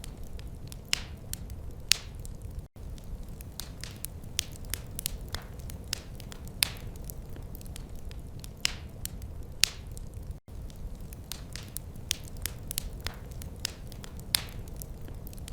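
Wood fire crackling: irregular sharp pops and snaps over a steady low rumble, with the sound cutting out for an instant twice.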